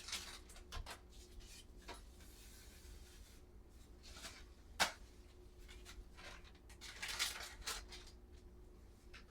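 Quiet household handling sounds while cleaning a kitchen: light rubbing and rustling with scattered small clicks, one sharp click about five seconds in, over a low steady hum.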